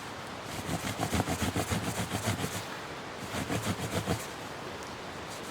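Knife's saw-back spine rasping back and forth across a damp branch, notching around the outside of the wood, in two quick runs of strokes with a short pause between them.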